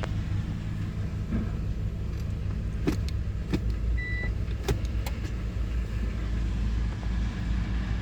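Subaru Forester's EJ201 2.0-litre flat-four boxer engine running steadily under test, with a few sharp clicks and a short beep about four seconds in.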